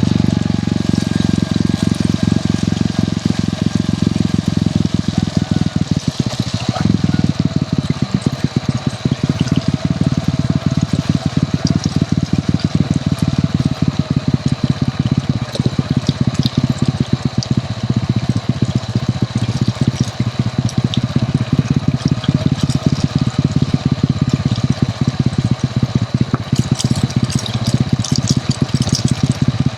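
Hero Honda CD100's single-cylinder four-stroke engine running steadily under way, a fast even pulsing that carries on without a break.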